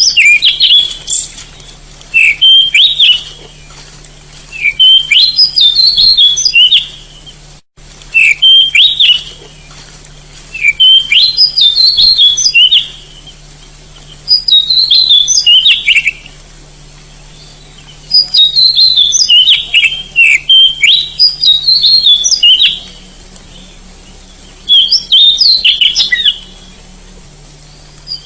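Oriental magpie-robin singing: a run of varied, rapid song phrases, each lasting one to two seconds, repeated with short pauses, over a faint steady low hum.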